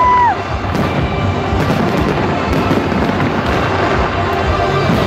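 New Year's Eve fireworks display: a dense, continuous crackle of firework bursts with music underneath. A held whistle-like tone drops away just after the start.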